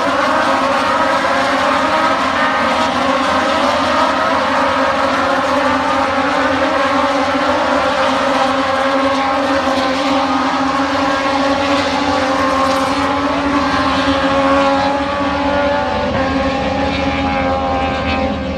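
Several MotoGP racing motorcycle engines running at once, a loud, steady mass of overlapping engine notes drifting up and down in pitch; it starts abruptly.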